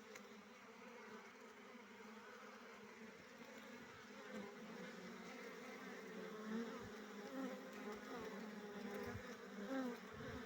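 A swarm of bees buzzing around their wild nest, a dense steady hum with wavering pitch that grows louder toward the end.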